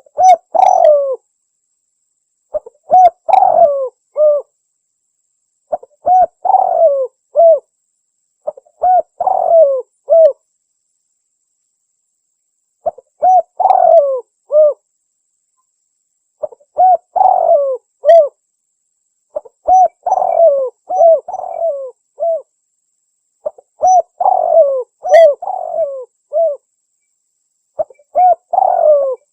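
Spotted dove (tekukur) cooing: a phrase of a few notes roughly every three seconds, repeated about ten times with short silent pauses between phrases.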